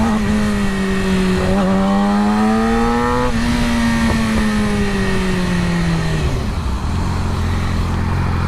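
Motorcycle engine running under way: its pitch rises a little, then falls as it slows. About seven seconds in it settles to a steady lower note.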